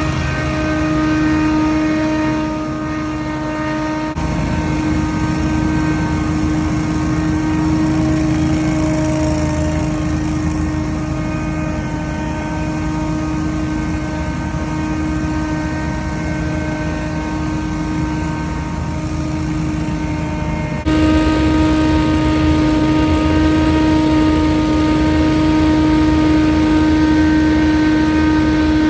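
Scag Windstorm stand-on leaf blower running, a loud steady engine-and-fan drone with a strong steady whine. The sound shifts abruptly about four seconds in and again about two-thirds of the way through, where it gets louder.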